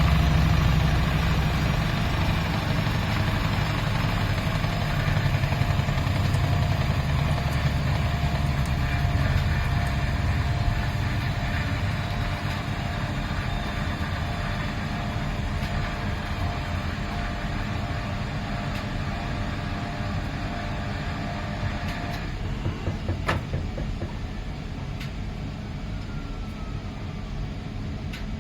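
Miele PW 6080 commercial washing machine running, its heavy low rumble fading as the drum slows. A steady whine stops about three-quarters of the way through, followed by a single sharp click.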